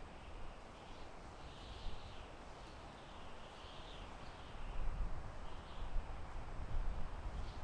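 Soft wind blowing through a forest, a steady rushing with low rumbling gusts that swell about five seconds in.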